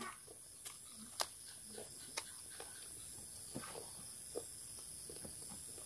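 Close-up mouth sounds of a man chewing boiled chicken and rice: a few short scattered smacks and clicks.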